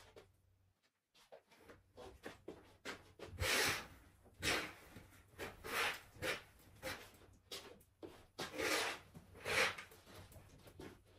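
Household handling sounds: a run of light taps and clicks with several louder rustling swishes, after a brief total dropout about a second in.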